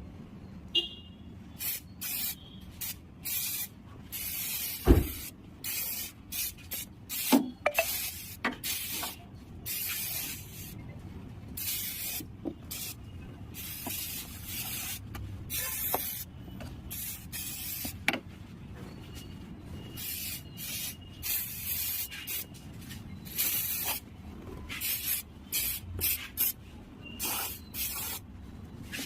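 Rat repellent spray hissing in many short, irregular bursts as it is sprayed over a car's engine bay to keep rats off the wiring. A sharp knock sounds about five seconds in, with a few lighter ones later.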